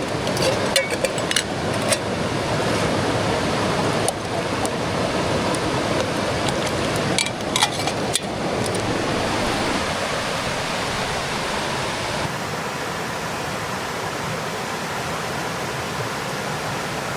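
Mountain creek water flowing steadily, with scattered sharp clicks and knocks in the first half.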